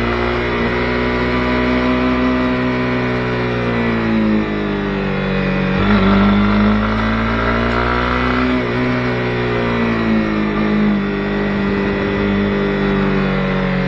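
Honda CB250R's single-cylinder four-stroke engine running under way, its revs rising and falling several times, with a sudden change about six seconds in.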